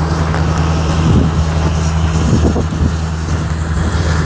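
A motor vehicle engine running with a steady low hum, over a haze of outdoor street noise.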